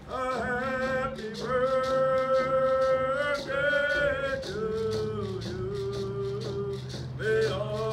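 A group of singers performing a Coast Salish-style birthday song, long held notes over a steady percussion beat of about two to three strokes a second.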